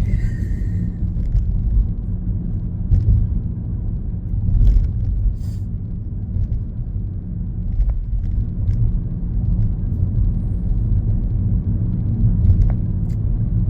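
Steady low rumble of a car's engine and road noise, heard from inside the cabin while driving, with a few faint scattered clicks.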